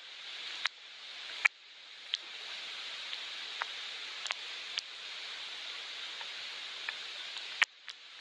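Soft, steady rain falling, with occasional sharp single drops ticking against a hard surface, two of them louder in the first second and a half.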